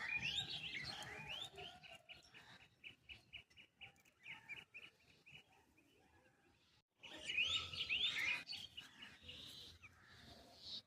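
Small birds chirping and calling, with quick rising and falling notes and a run of rapid repeated notes, about six a second. After a brief break about seven seconds in, a fresh burst of chirping starts.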